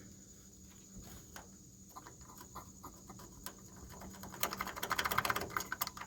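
Scattered light clicks and taps, then a burst of rapid clicking and rattling about four and a half seconds in, the loudest part. Crickets chirp steadily underneath.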